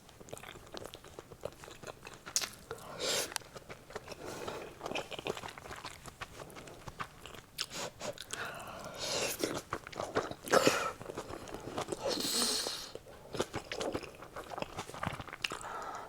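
Close-up eating sounds of braised pork and kimchi being bitten and chewed, with crunchy bites coming in bursts a few seconds apart.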